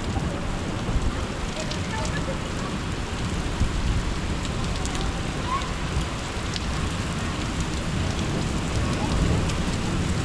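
Steady rain falling, with scattered drops ticking close by over a continuous low rumble.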